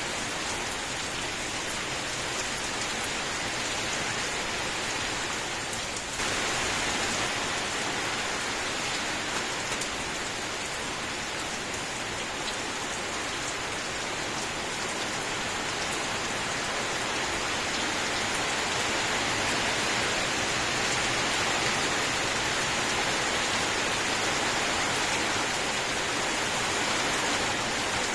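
Steady rain falling, a continuous even hiss of drops, which turns suddenly a little louder and brighter about six seconds in.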